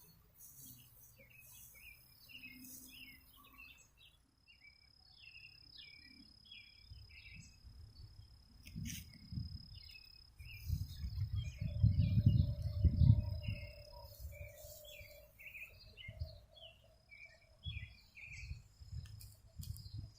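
Small birds chirping in a garden, many short repeated calls, over a thin steady high-pitched trill. About eleven to fourteen seconds in, gusts of wind rumble on the microphone, the loudest part.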